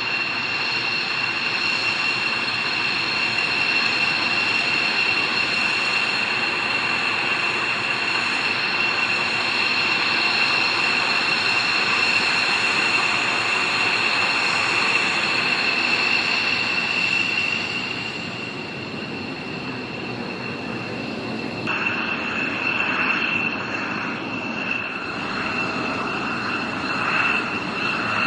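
Jet aircraft engine running: a steady rushing roar with a high whine. It eases about two-thirds of the way through, then changes abruptly to uneven surges near the end.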